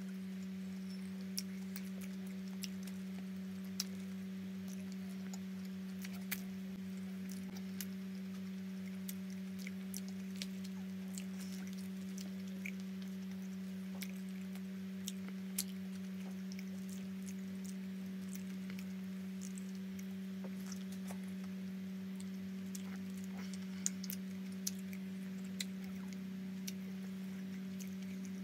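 Close-up eating sounds of a roti John being chewed: scattered small wet clicks and smacks of chewing and lips, over a steady low hum.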